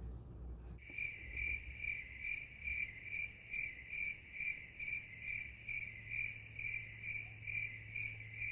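Cricket chirping in a steady, even rhythm of about three high chirps a second, starting abruptly about a second in.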